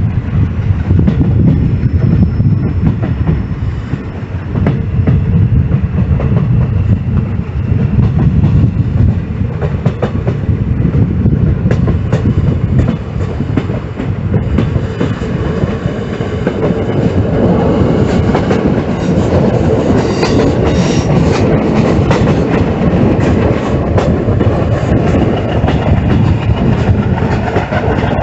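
Train running along the track, its wheels clattering over the rail joints with a steady heavy rumble. About halfway through the noise grows harsher and louder.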